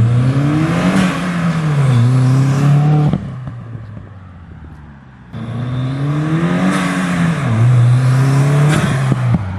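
Turbocharged car engine with an aftermarket intake being revved twice. Each rev climbs in pitch, drops back and holds, with loud intake hiss on top, then cuts off sharply when the throttle is released, once about three seconds in and again near the end.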